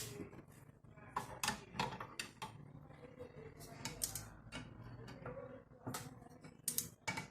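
Irregular metal clicks and taps from tools working on a washing machine's bearing while it is being removed, a few knocks a second, over a low steady hum.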